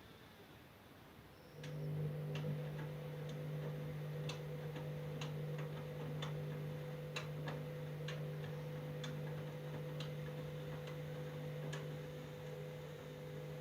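Candy washing machine's motor starts up about two seconds in and turns the drum with a steady hum while the machine works at an extremely unbalanced medium load. Irregular clicks come through over the hum, roughly one or two a second.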